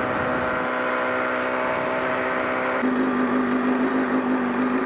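Motorcycle engine running at a steady speed while riding, with wind rush over the microphone; about three seconds in, the engine note changes and a stronger low hum takes over.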